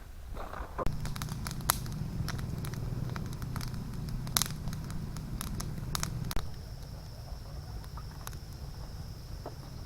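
Footsteps along a woodland trail, with twigs and leaf litter crackling and snapping underfoot in irregular clicks. The steps stop about two-thirds of the way through, and a steady high insect buzz carries on.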